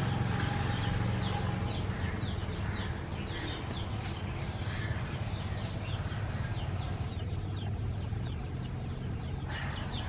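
Small birds chirping over and over in quick, short, high notes that drop in pitch, several a second, over a steady low hum.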